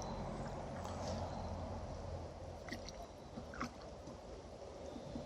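Water gurgling and sloshing as a heavy magnet-fishing catch is hauled toward the surface on a rope, with a low rumble and a few faint clicks.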